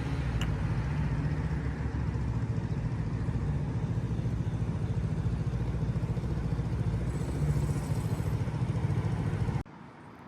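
A motor vehicle engine running steadily close by, a low hum over street noise. It cuts off abruptly near the end.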